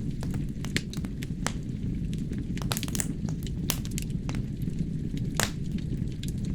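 Wood fire burning in a fireplace: a steady low rumble of flames with irregular sharp crackles and pops from the burning logs, one louder pop about five seconds in.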